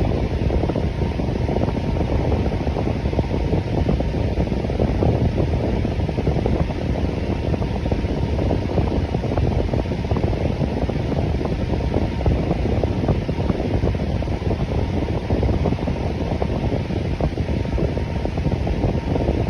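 Electric fan running steadily: an even, low whooshing rush of moving air with a faint steady hum.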